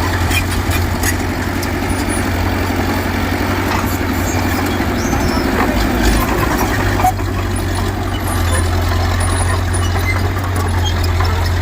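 A bulldozer's diesel engine running steadily with a low, constant hum, and scattered metallic clicks and clanks over it.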